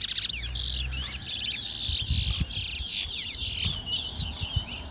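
Towa-towa finch singing a fast, warbling song of quick rising and falling whistles and buzzy trills.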